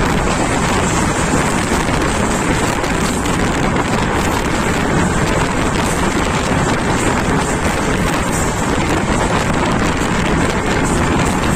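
Steady rush of wind on the microphone mixed with the running noise of a passenger train at speed.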